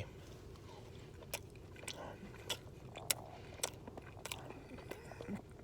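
A person chewing a mouthful of buffalo chicken fries burrito. It is faint, with small wet mouth clicks coming about every half second.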